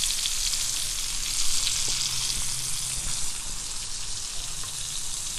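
Fish and chopped tomatoes, onions and green chillies frying in oil on a flat iron tawa: a steady sizzle with faint crackles.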